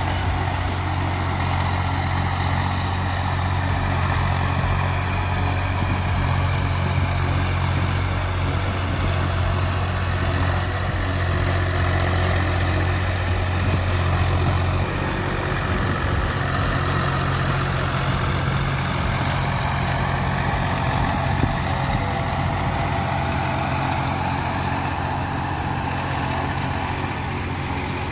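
Massey Ferguson 245 DI tractor's diesel engine running steadily, its low hum shifting about halfway through.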